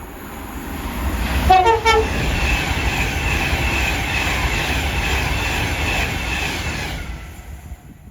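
A train passing through the station at speed, sounding a brief two-note horn as it comes in, then the steady rush of wheels on rail that fades away near the end.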